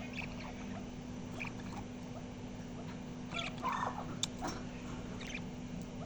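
A small pet parrot making short chirps and chattering calls in scattered bursts, busiest a little past halfway, with a sharp click among them, over a steady low hum.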